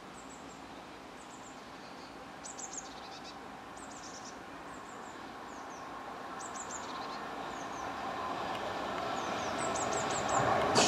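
Small birds chirping in short quick runs, again and again, while a Class 375 electric multiple unit approaches, its rolling noise growing steadily louder through the second half.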